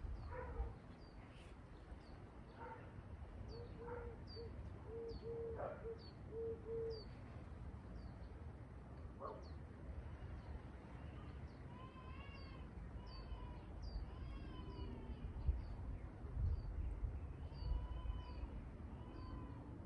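Birds calling: short, high chirps repeat about twice a second throughout. A run of short low notes comes a few seconds in, and several longer arched calls come in the second half, over a low background rumble.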